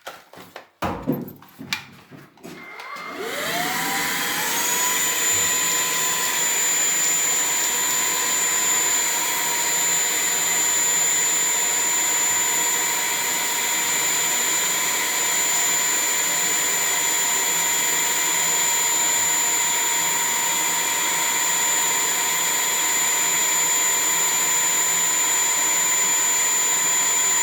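Vacuum cleaner switched on: a few clicks, then the motor spins up with a rising whine over about two seconds and runs steadily, a high whine over the rush of air.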